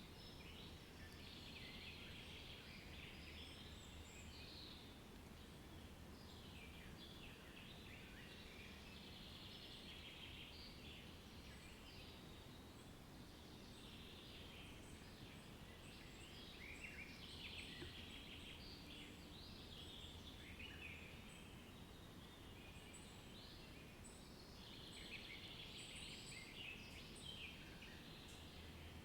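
Faint chorus of many birds chirping and calling continuously, over a steady low hum.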